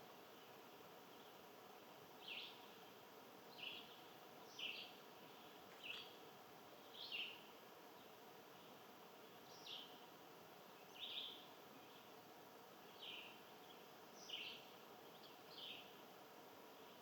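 Songbird calling faintly: about ten short, falling chirps spaced one to two seconds apart over a steady outdoor hiss.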